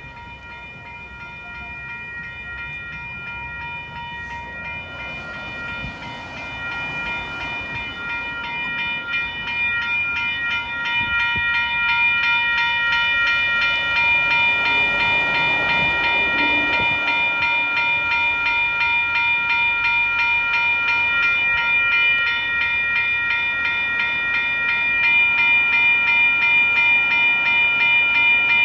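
Western-Cullen-Hayes electronic level-crossing bells ringing continuously in a rapid, even pattern, the warning that a train is coming. They grow louder over the first dozen seconds, and a train runs through the crossing beneath the ringing.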